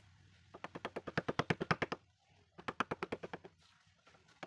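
A wood-carving chisel tapped rapidly with a mallet into wood, about eleven quick strikes a second, in two runs of about a second each with a short pause between.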